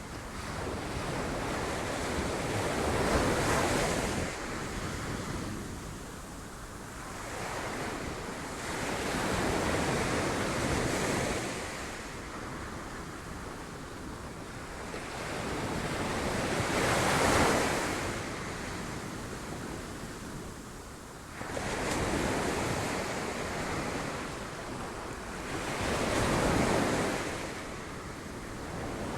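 Sea waves breaking against rocks, the surf swelling and falling back in surges every few seconds, with wind on the microphone.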